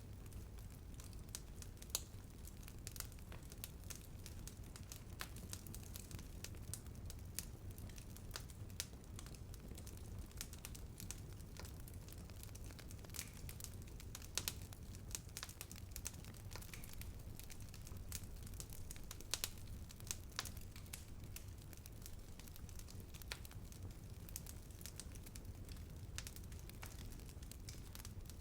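Wood fire burning with a steady low rumble and many irregular sharp crackles and pops.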